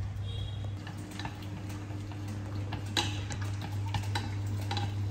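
Chopsticks tapping and scraping in a frying pan as meat is stirred. Scattered light clicks, with a sharper knock about three seconds in, over a steady low hum.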